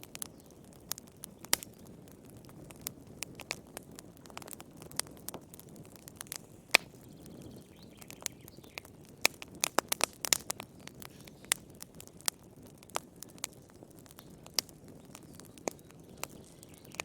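Wood fire in a fireplace crackling: irregular sharp pops and snaps, most frequent around ten seconds in, over a soft low rush of the flames.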